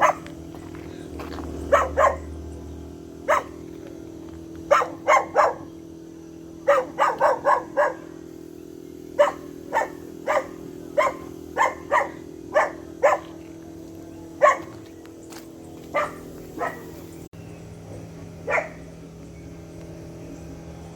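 A dog barking repeatedly, about two dozen short barks in uneven bursts, over a steady low hum.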